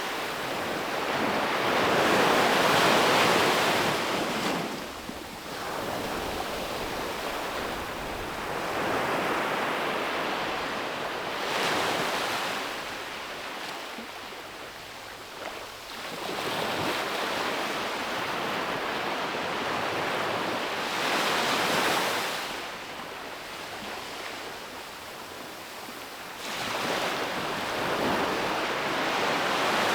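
Ocean waves breaking on a beach, the surf rushing in and washing back in slow swells every several seconds.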